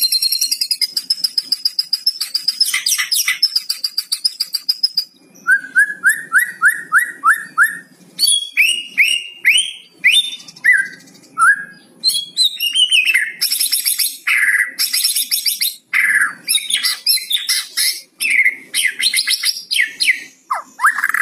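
White-rumped shama calling and singing: a dense, fast crackling rattle over a high steady whistle for the first five seconds, then a run of about eight quick rising notes and a varied string of whistles and harsh chips.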